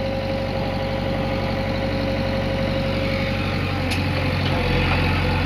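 Heavy diesel engine running steadily at idle, with a short click about four seconds in.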